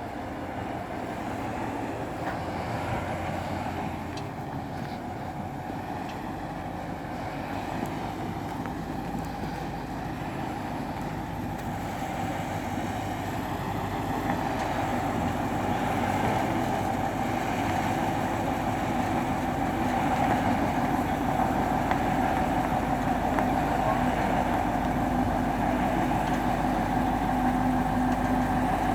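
Truck crane's engine running steadily. It grows louder about halfway through, with a steady whine coming up over the engine noise.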